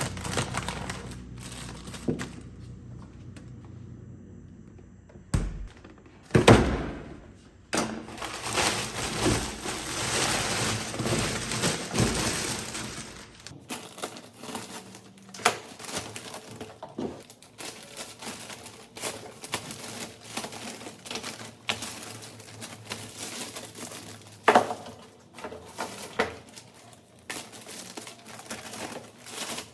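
Household handling sounds: objects set down with knocks and clinks, and packaging crinkling. The loudest knock comes about six seconds in, followed by several seconds of steady rustling.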